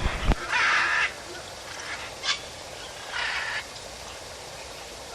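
Two harsh, raspy bird calls, the first lasting nearly a second and the second shorter about three seconds in, with a single sharp click between them.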